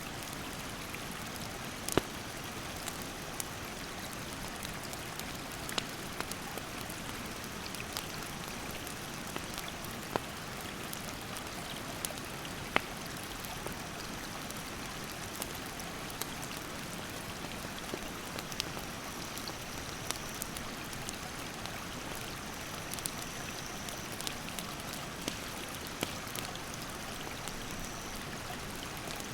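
Rushing stream water making a steady hiss, with a wood campfire crackling over it in scattered sharp pops and snaps, a few of them clearly louder than the rest.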